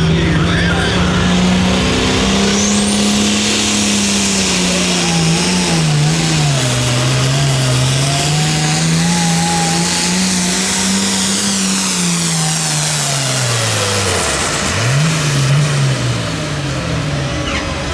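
Pulling vehicle's engine running at full power during a pull, its note wavering up and down, with a high whine that rises in about three seconds in. Near the end the engine note drops away, followed by one short rev before it quietens.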